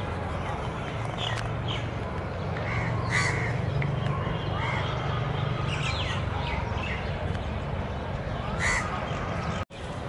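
Birds giving short, harsh calls several times, spaced irregularly, over a steady low rumble. The sound cuts out for an instant near the end.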